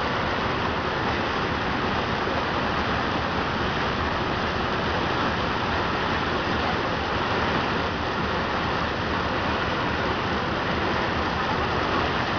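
Steady, even rushing noise aboard a moving ship, with no distinct tone, knocks or changes.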